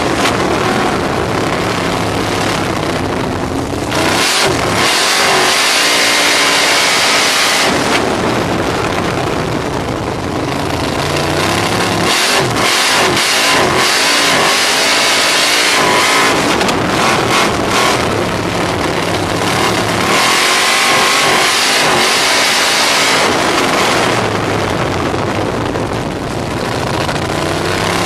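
Small-block V8 of a 305 sprint car heard from on board, going repeatedly between wide-open throttle on the straights and lifting off through the turns, the pitch wavering while off the throttle.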